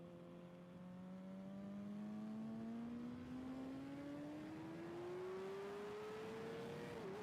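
Motorcycle engine pulling hard on a track, its pitch rising steadily through the revs, with a brief dip near the end as it shifts up a gear.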